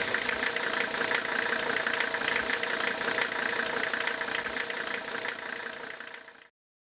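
Diesel engine idling with a fast, even clatter. It fades down near the end and then cuts off suddenly.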